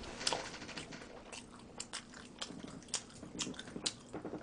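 A person chewing a mouthful of cheesy deep-dish pizza close to the microphone: faint, irregular mouth clicks.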